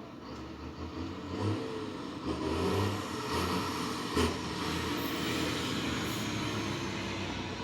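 Mack truck's diesel engine running and growing louder over the first few seconds, its note shifting, then holding steady, with a sharp click about four seconds in.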